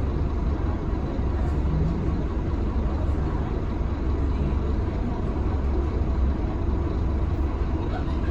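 Scania K310UB bus with its DC9 five-cylinder diesel engine running steadily, heard from on board: a deep, even rumble under a steady haze of cabin noise.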